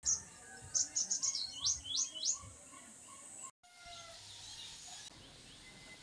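A bird chirping a quick run of short, high notes, several of them sliding downward, over rural outdoor background noise. The sound cuts out for a moment a little past halfway, then a steady outdoor hiss continues with a few faint distant calls.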